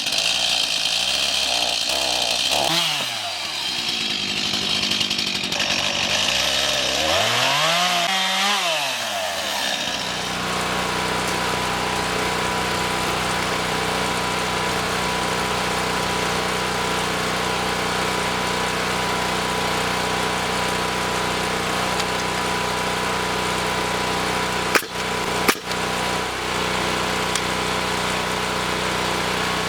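A power tool's motor running loud. In the first ten seconds its pitch twice rises and falls, then it settles into a steady hum, with a couple of sharp knocks near the end.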